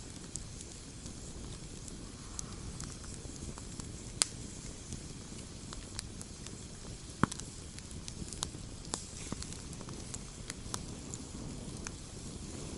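Wood campfire crackling: irregular sharp pops and snaps over a steady low rumble of burning, with two louder pops about four and seven seconds in.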